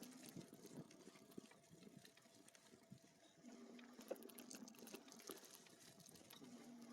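Faint, steady hum of an e-bike's motor that cuts out for a few seconds and comes back twice, over faint scattered crackles from the tyres on the trail.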